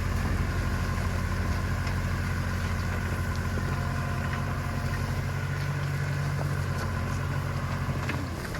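Heavy diesel engine idling with a steady low throb. Its note shifts slightly about five seconds in, and it drops in level just before the end.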